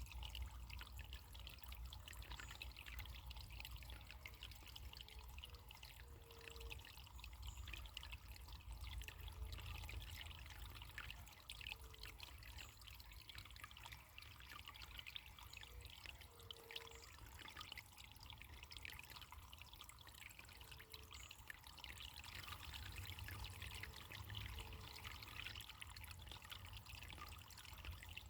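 Faint running water trickling steadily, as of a small stream, with a low rumble underneath. Brief low notes sound every few seconds.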